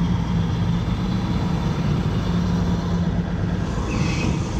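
A car's engine running with a steady low rumble.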